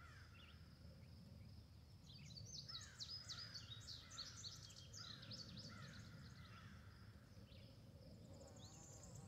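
Faint birdsong: many quick chirps and twittering glides, thickest in the middle of the stretch, over a low steady hum.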